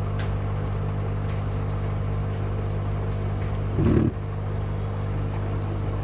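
Hot-air rework blower running with a steady hum while heating the phone board to desolder the display backlight's boost coil. A brief louder low thud about four seconds in.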